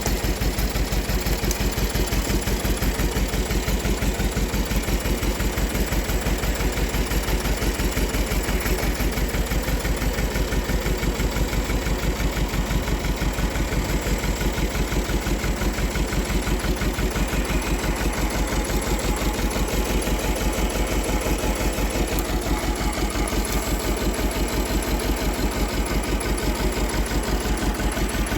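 Holder A30 small tractor's engine running steadily at a low, even speed, its firing pulses regular and unchanging.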